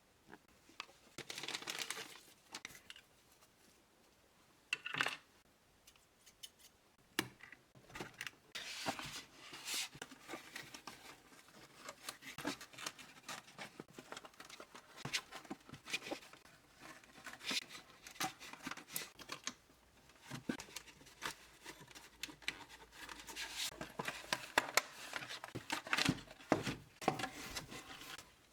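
Doll packaging being opened by hand: irregular tearing, crinkling and scraping of cardboard and plastic, in short bursts that come more often and louder near the end.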